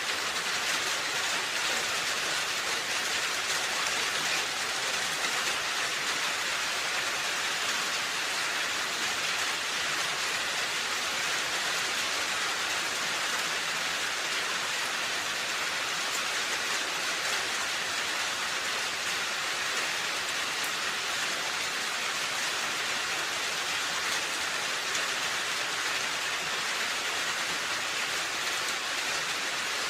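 Steady rain falling on a roof, an even dense patter with no pauses.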